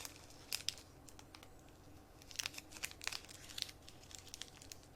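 Faint scattered clicks and crinkling rustles, a couple about half a second in and a busier cluster in the middle, over a low room hum.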